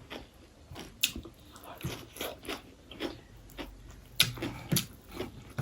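Chewing and biting on a mouthful of chicken biryani: irregular short mouth clicks with a few louder bites.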